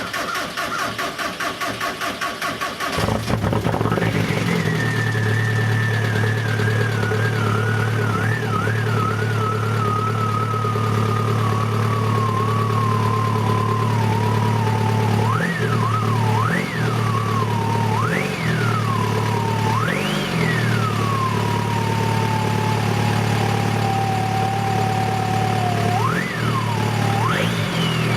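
Muffler-deleted 2000 VW Jetta TDI's 1.9-litre four-cylinder turbo diesel cranking rhythmically for about three seconds before it catches on a cold start with faulty glow plugs, then idling loudly through the open exhaust. A high whine slowly drops in pitch as it idles, and it is revved briefly several times, four in the middle and two near the end.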